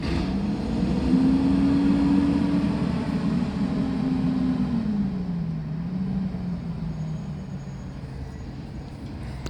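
Garbage truck's diesel engine revving up, holding the higher speed for a few seconds, then dropping back to a low idle.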